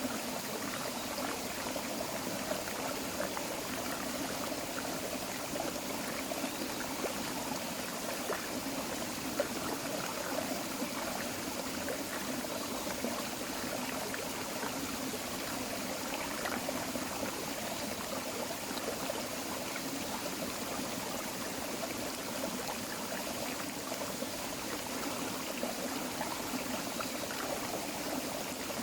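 Creek water running and trickling steadily over stones, with a constant babble.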